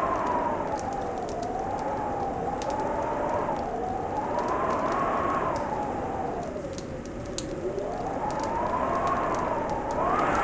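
Fireplace crackling with scattered sharp pops, over a howling wind whose whistling pitch slowly rises and falls every few seconds.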